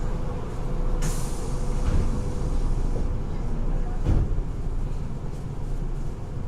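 Running noise of a Nagoya Municipal Subway 3000-series train heard inside the car: a steady low rumble with a faint steady hum, a brief hiss about a second in and a low thump about four seconds in.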